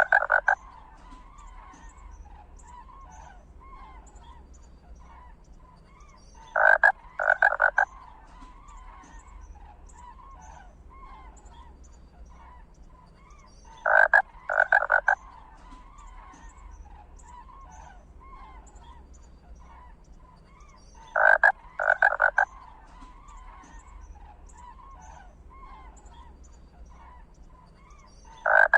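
Frog-like croaking: a loud call of two or three short pulses repeating evenly about every seven seconds, over a faint steady chorus of smaller calls.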